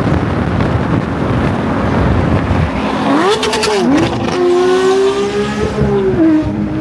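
Porsche 992 GT3's naturally aspirated 4.0-litre flat-six running under a steady engine note. About three seconds in it revs up, dips briefly and climbs again, then holds a higher pitch before easing back near the end.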